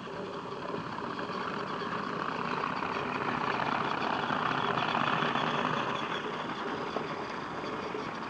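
Battery-powered Trackmaster Thomas toy engine running along plastic track, its small motor whirring steadily with the rattle of its wheels. It grows louder towards the middle and eases off again, with one small click near the end.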